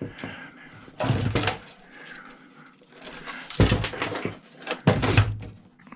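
Cash register parts being handled and set down during a teardown: groups of clattering knocks and rattles, around one second in, at about three and a half seconds, and again near five seconds.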